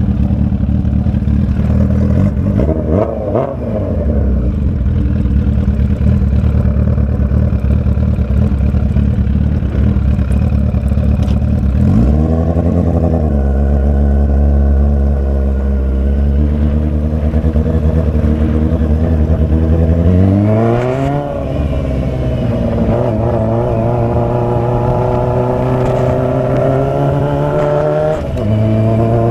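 Straight-piped Suzuki GSX750F inline-four running under way, its exhaust note climbing and dropping in pitch several times with throttle and gear changes, and holding steady between.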